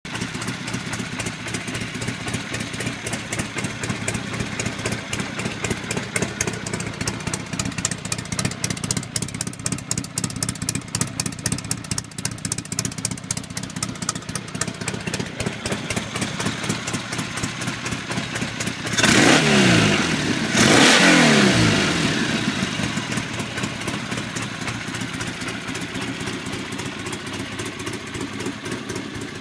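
1973 Triumph Tiger's parallel-twin engine idling with a steady, even beat. It is blipped twice in quick succession about two-thirds of the way through, the pitch rising and falling back to idle each time.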